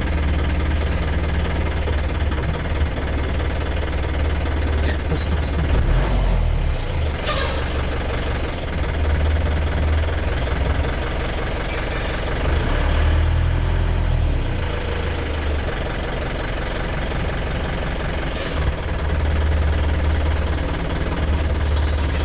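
Safari jeep's engine running with a steady low hum that shifts up and down in pitch twice as it is revved, about six seconds in and again around thirteen seconds.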